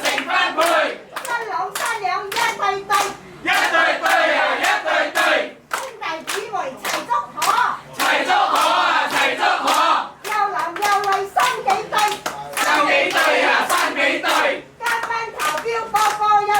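A crowd of people's voices calling out over one another, with many scattered hand claps and sharp clicks throughout.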